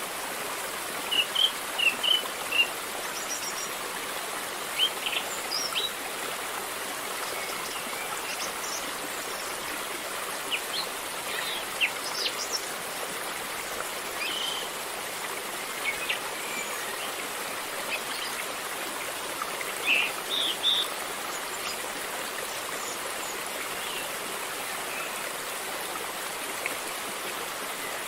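River water flowing steadily over stones, with birds chirping now and then, in short bursts of calls clustered about a second in, around the middle and again around twenty seconds in.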